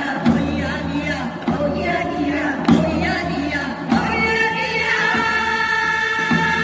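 A group of voices singing with accompaniment and a steady low backing, ending on a long held note from about four seconds in.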